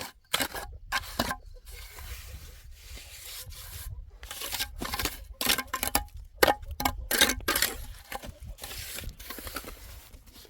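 Irregular rough scraping and rubbing strokes, coming in quick uneven runs and loudest in the middle.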